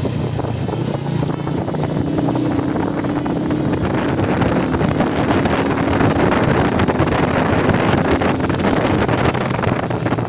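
Motorcycle engine running while riding, with heavy wind noise on the microphone; the engine note steps up about two seconds in and holds higher.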